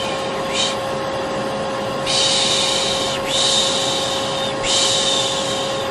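Vacuum cleaner running with a steady drone and hum, overlaid by a person's repeated 'shh' shushing of the kind used to lull a baby to sleep: a short shush about half a second in, then longer ones from about two seconds on.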